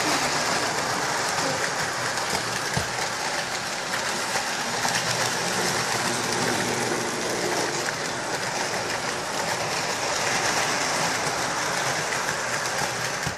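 O-27 gauge toy electric train running on its track: a steady whirring and rattling of the motor and wheels on the rails, with a dense run of small clicks.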